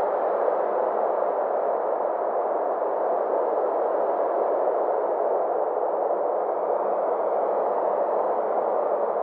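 Synthesized ambient space drone: a steady, even rushing sound with a faint hum held on one low note beneath it and faint slow sweeps in pitch above it.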